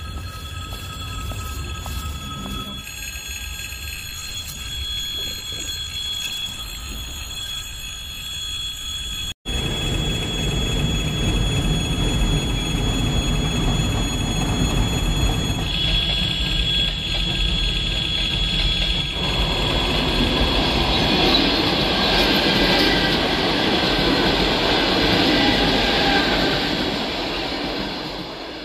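Railway crossing warning signal sounding as steady tones, then a passenger train approaching and passing close, its wheels running on the rails. The train grows louder from about two-thirds of the way in and stays loud until near the end.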